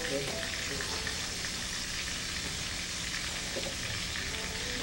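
Lumpiang shanghai (Filipino spring rolls) frying in hot oil: a steady, even sizzle.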